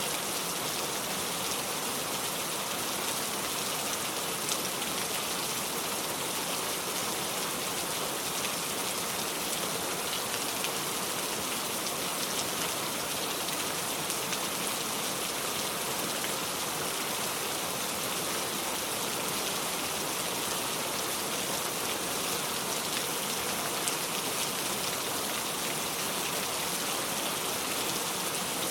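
Steady rain: an even, unbroken hiss with many faint scattered drop ticks.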